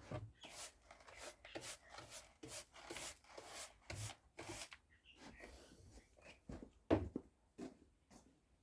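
Hand tool scraping in quick strokes, about two a second, while copper is worked free from a microwave oven's transformer, followed by a few scattered knocks and one heavier thump about seven seconds in.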